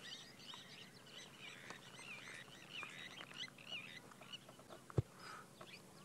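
Several small birds chirping and warbling over one another, with a faint steady low hum underneath. A single sharp click about five seconds in.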